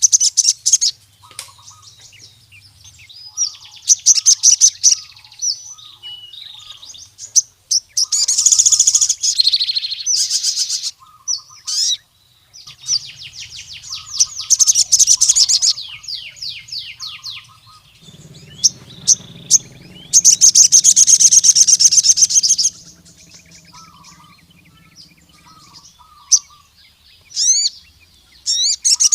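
Male sogon sunbird singing: loud bursts of rapid, high chattering trills and chirps, each lasting one to three seconds and repeated every few seconds. This is the wild-style call a male gives to challenge rival males.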